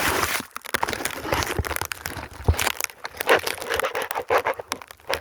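Footsteps crunching through deep fresh snow, an irregular series of crunches and rustles.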